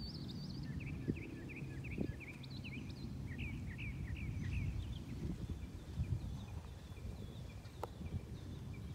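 A bird chirping in long runs of short, quick chirps, several a second, over a steady low rumble.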